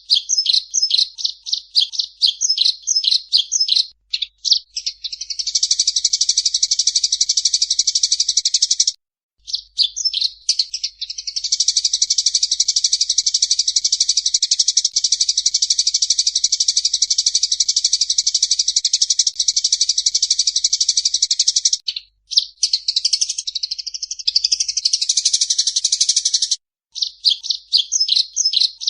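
A small songbird singing. It starts with a quick run of repeated high chirps, then breaks into fast rolling trills. The longest trill runs unbroken for about ten seconds, and a varied twittering phrase comes near the end.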